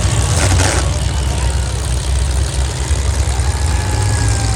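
Demolition derby car engines running together, a loud, steady, deep rumble. There is a brief noisy burst about half a second in.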